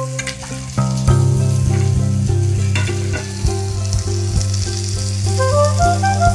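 Mushrooms, peas, potatoes and capsicum sizzling as they fry in oil in a wok. Instrumental background music plays over it, with a melody of held notes.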